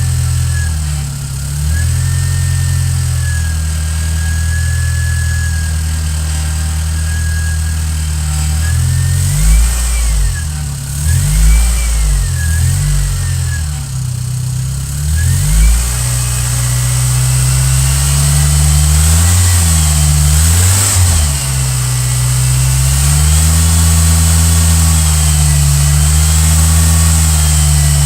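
1997 Geo Metro engine running at idle, blipped up in several quick revs about nine to sixteen seconds in and again around twenty seconds, then settling back to a steady idle.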